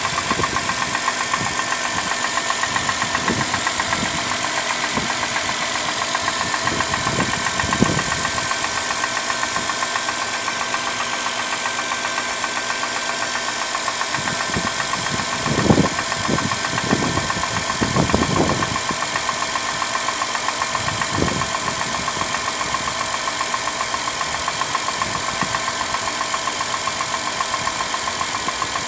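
2005 Dodge Caravan's 3.3-litre V6 idling with a rapid, regular knock from inside the engine. A few louder brief bumps come about halfway through.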